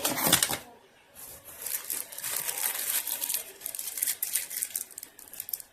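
Packaging being handled: a loud rustle at the start, then irregular crinkling and rustling that goes on until near the end.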